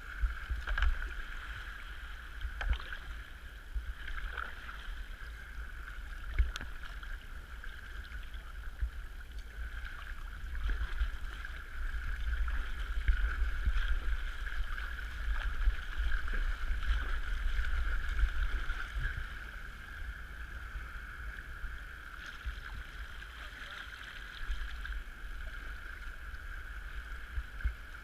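Kayak being paddled on the sea: paddle strokes and water washing against the hull, with a low rumble and a steady high-pitched hum underneath. Several sharp knocks in the first few seconds, and the water noise grows louder for a spell in the middle.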